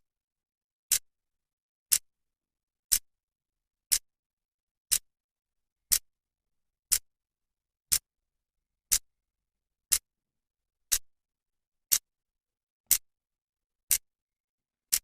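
Clock second hand ticking steadily, one sharp tick per second, with silence between the ticks.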